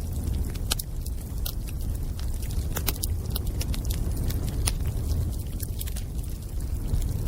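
Bonfire burning with a steady low rumble and irregular sharp crackles and pops from the burning wood, several each second.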